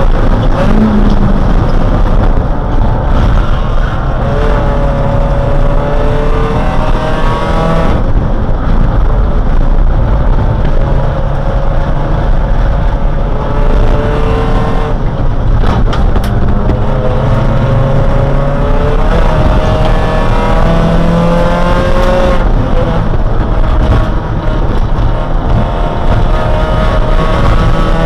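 Dodge Neon race car's four-cylinder engine at full throttle, heard from inside the cabin. Its pitch climbs steadily through each gear and drops sharply at every upshift, several times over.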